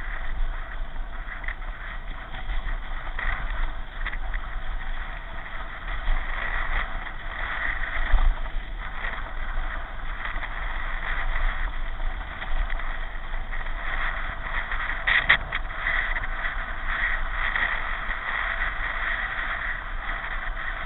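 Steady rushing wind and rolling noise of a pedal car in motion, with a low rumble underneath and two brief knocks, one near the middle and one about three-quarters of the way through.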